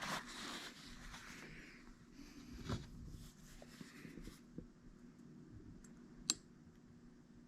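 Faint handling noises: a rustle at the start, a knock just under three seconds in, and a single sharp click about six seconds in.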